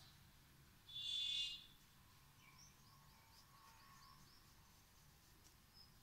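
Birds calling: one short, loud call about a second in, then a string of quick, high chirps, about five a second.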